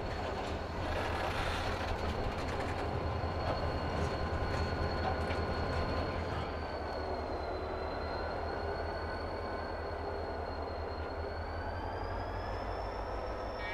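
A freight train rolling slowly past, its wheels clicking over the rail joints, as an EMD GP40 diesel locomotive goes by close with a steady low rumble. A thin high squeal dips and rises in pitch over it, and the train is loudest in the first half.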